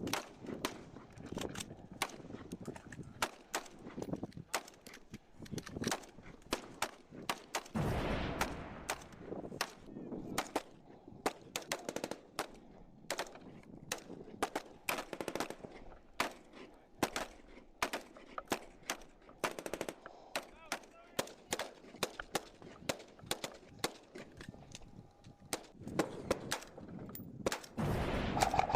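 Airsoft replicas firing in a skirmish: many sharp cracks at irregular intervals, single shots and quick bursts, with a louder low rush about eight seconds in and again near the end.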